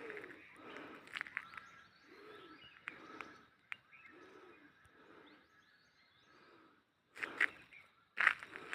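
Wild birds calling and chirping, with low arching calls repeating under higher chirps. Two brief, loud bursts of noise come near the end.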